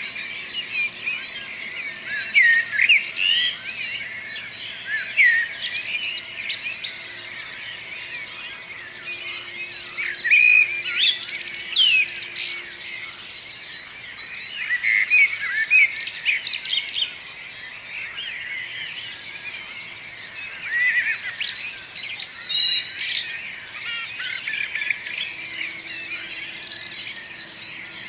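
Morning chorus of several songbirds singing at once: many overlapping chirps, trills and short whistled phrases.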